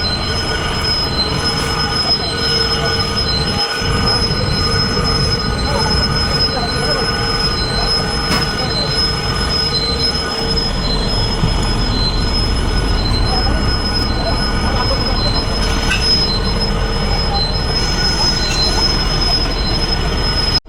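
Steady machine running noise with several high, steady whining tones over a low rumble, and a higher tone that pulses on and off about twice a second.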